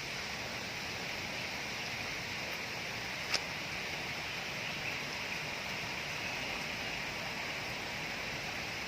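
Steady rain falling, an even hiss throughout, with one sharp tick about three seconds in.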